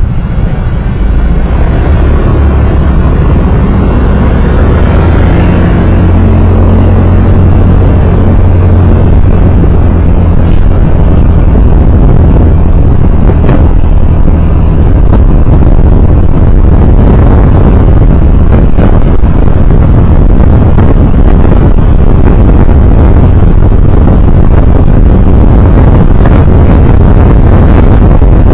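Road vehicle under way: a loud, steady low rumble of engine and road noise.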